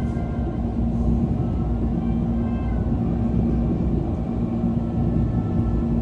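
Steady rumble of a Korail Mugunghwa-ho passenger train running, heard inside the carriage, with a constant low hum and faint higher whining tones that come and go.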